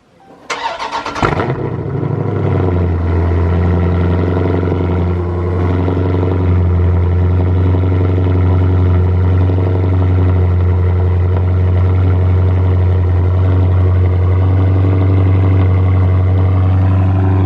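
Car engine cold-starting: a brief crank about half a second in, catching with a rev flare a moment later, then settling into a loud, steady idle.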